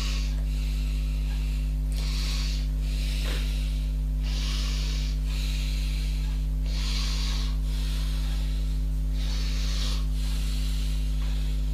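Slow rubbing strokes of hand filing or sanding on a workpiece, about one every two seconds, over a steady low electrical hum.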